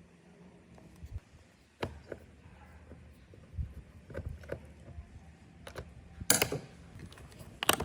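Scattered light clicks and taps of small parts and tools being handled on a workbench, with two louder sharp clacks near the end.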